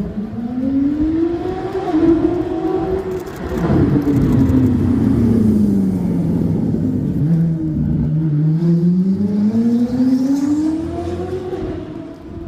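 Koenigsegg CC850's twin-turbo V8 engine revving: the note climbs for about three seconds, breaks into a rough burst about four seconds in, sinks slowly, then climbs again and drops off near the end.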